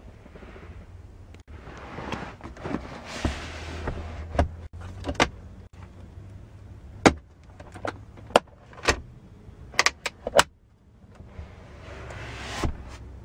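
Rustling handling noise with a run of sharp clicks and knocks, most tightly bunched from about seven to ten seconds in, the loudest around seven seconds in.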